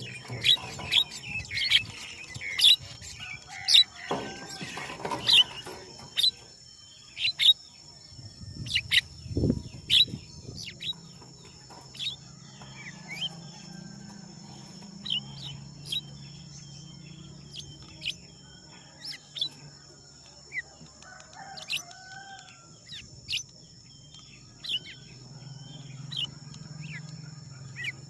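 Birds chirping: short, sharp calls about once a second, coming thickest in the first six seconds, over a steady high-pitched hum.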